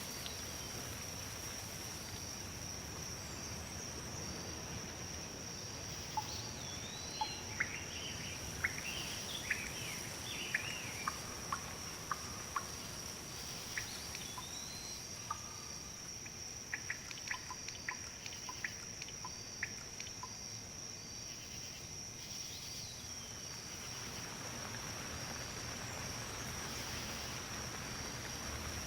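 Outdoor nature ambience: breeze rustling leaves, under a steady high-pitched insect drone. Scattered bird chirps and short whistled calls come between about 6 and 20 seconds in.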